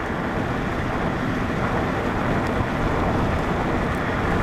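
Loud, steady rushing noise of wind and a vehicle's running noise, heaviest and fluttering in the low end.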